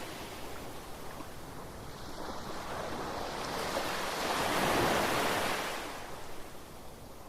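Gentle sea waves washing onto the shore: one wave swells and breaks about two-thirds of the way through, then its wash fades away.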